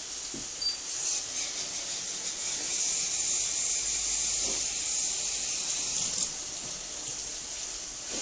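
Onions and spices frying in oil in a pot: a steady high sizzle.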